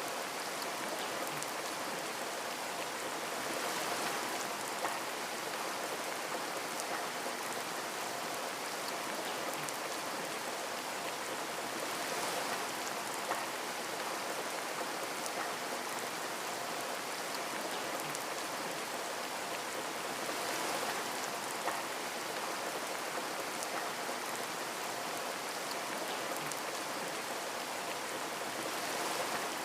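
Steady rain pattering on a window, a dense hiss with individual drops ticking through it. The rain swells slightly every few seconds.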